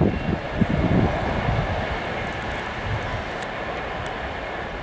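Rumble of a train running on the line, with gusts buffeting the microphone in the first second or so, then a steadier rumble that slowly fades.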